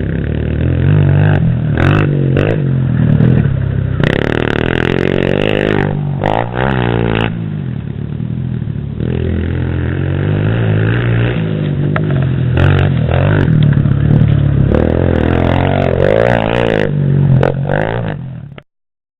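Stock pit bike engine running, revving up and down repeatedly as it is ridden, with some clatter; the sound cuts off suddenly near the end.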